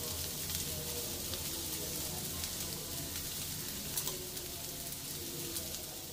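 Sliced boiled potatoes sizzling steadily as they shallow-fry in butter in a nonstick pan, with faint crackles and a small click about four seconds in.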